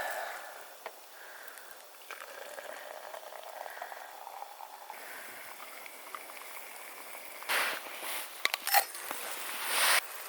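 Water bubbling as it heats in a pot on a camp stove, with small ticks. Near the end come two louder bursts of hiss and a few sharp clinks.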